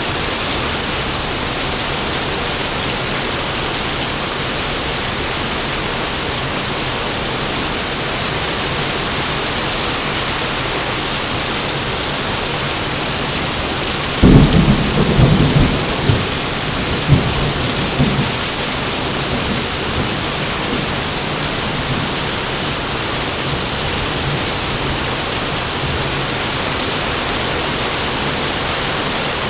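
Heavy rain falling steadily, with a clap of thunder about halfway through: a sudden loud low rumble with several cracks over about four seconds, then rolling away.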